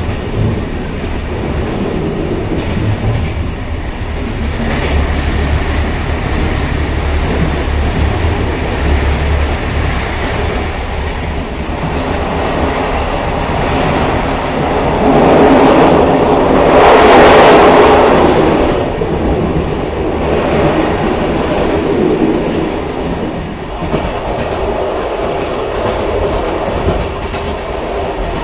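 Railcar running on the rails: a continuous low rumble with wheel clatter, swelling louder and brighter for a few seconds past the middle before settling back.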